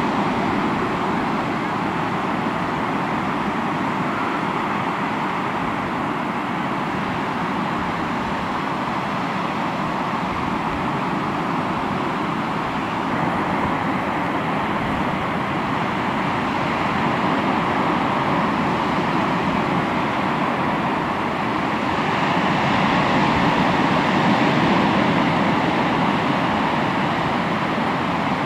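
Sea waves washing onto the shore: a continuous rushing surf that swells and ebbs, rising to its loudest about three-quarters of the way through.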